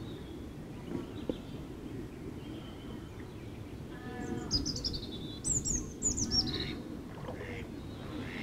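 Wild birds calling: a cluster of high, quickly falling chirps in the middle, over a steady low outdoor background noise.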